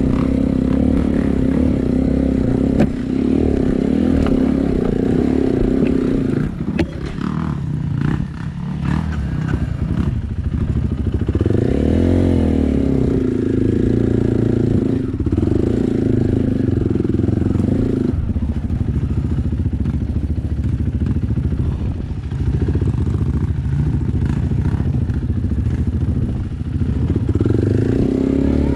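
Off-road motorcycle engine running under way, its revs rising and falling with the throttle. It eases off and the sound breaks up for a few seconds about a quarter of the way in, then climbs again.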